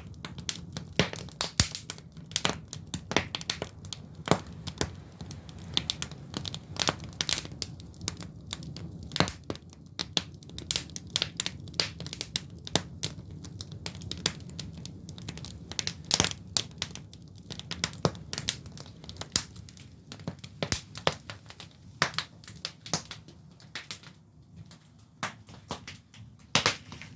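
Firewood burning in a traditional Korean agungi firebox, crackling and popping irregularly over a low steady background.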